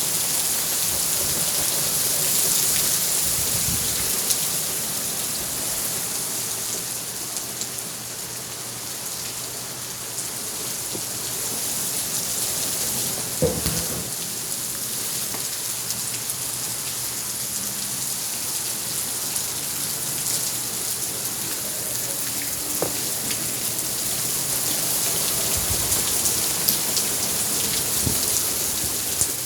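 Heavy rain falling steadily in a constant hiss, with a few sharp knocks, the loudest about thirteen seconds in.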